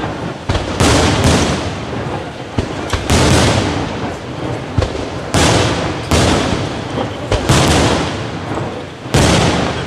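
Aerial firework shells bursting in quick succession, about eight sharp bangs, each trailing off in a crackling hiss from the falling white glitter stars.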